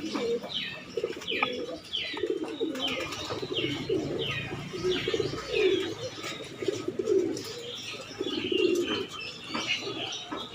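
Pigeons cooing over and over, with short high chirps that fall in pitch repeating about twice a second.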